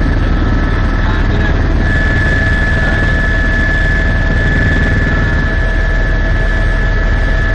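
Helicopter in flight: loud, steady rotor and engine noise with a fast, even rotor beat and a steady high whine over it.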